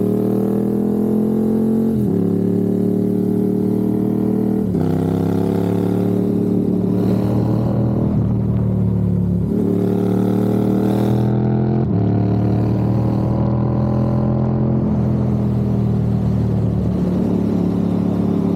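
Motorcycle engine under way, pulling through the gears: its pitch climbs steadily, then drops sharply at each shift, several times over.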